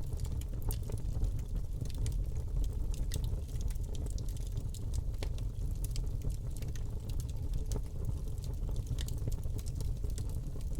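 Wood fire crackling in a fireplace: a steady low rumble of flame with many small, irregular pops and snaps.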